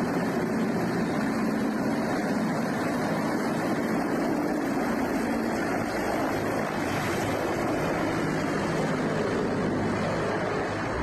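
Helicopter running, a steady noise of engine and rotor at an even level with no distinct changes.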